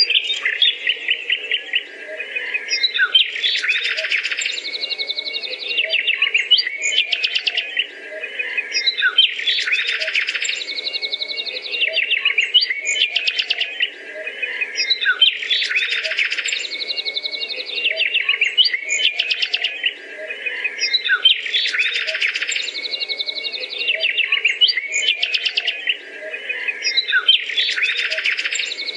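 Birds chirping and trilling rapidly, in a short recording that repeats about every six seconds as a loop.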